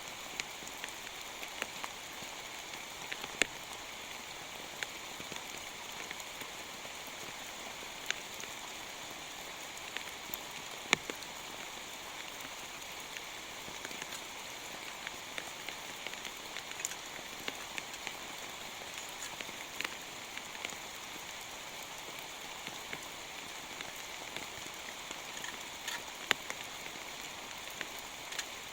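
Steady rain, with scattered sharp taps of single drops striking a surface.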